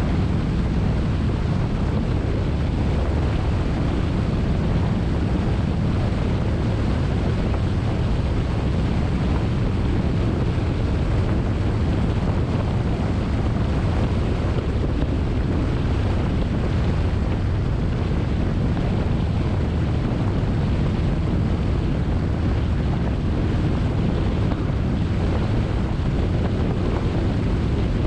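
Motorcycle riding at a steady speed, heard as a continuous low rumble of wind buffeting the microphone over the bike's running engine.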